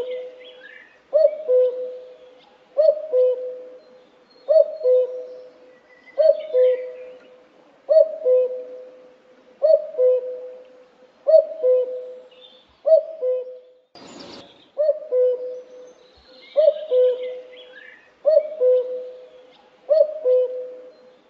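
A bird's two-note hooting call, the first note higher and the second lower, repeated about every 1.7 seconds. Other small birds chirp faintly above it, and there is one short rustling burst about two-thirds of the way through.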